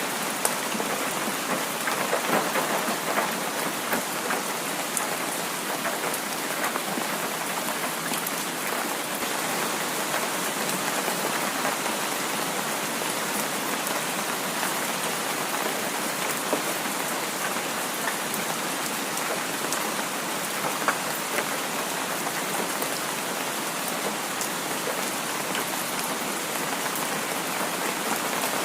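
Heavy rain falling steadily, a continuous hiss with scattered individual drops ticking through it.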